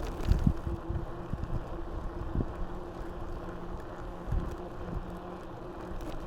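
Mountain bike rolling along a path: a steady tyre hum with irregular knocks and rattles from bumps, and wind on the action camera's microphone.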